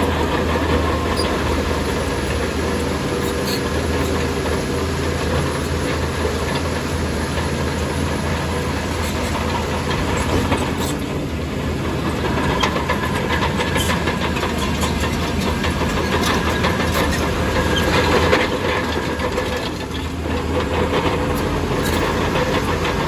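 Heavy diesel earthmoving machinery working: a steady engine drone with scattered metallic clanks and rattles.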